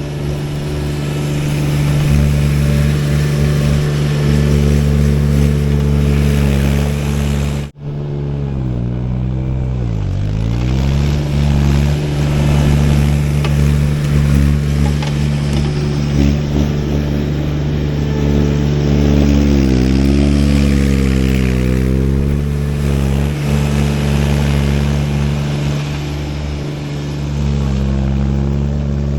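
Baumalight TRL620D mini skid steer's engine running steadily at speed. It pulls down in pitch twice, about nine and twenty seconds in, and recovers each time, as it does when the machine is worked under load. The sound breaks off for an instant about eight seconds in.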